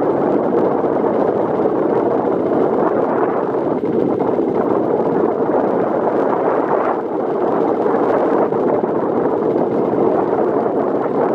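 Strong wind buffeting the camera's microphone: a loud, steady rushing noise.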